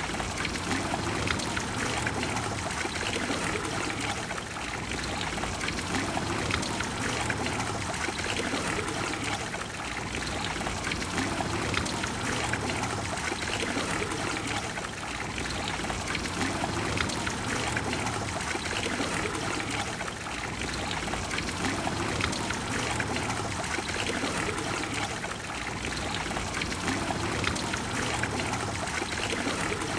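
Water of the Trevi Fountain pouring and splashing into its basin: a steady, even rush with no pauses.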